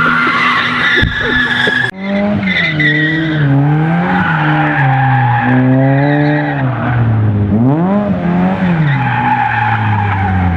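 A car doing donuts: its engine revving up and down repeatedly while the tires squeal continuously. The sound cuts out sharply for a moment about two seconds in.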